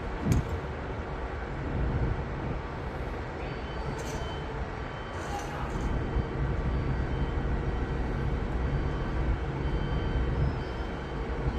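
Heavy machinery running steadily with a low engine rumble. A sharp clank comes just after the start, and a few short hisses follow a few seconds in.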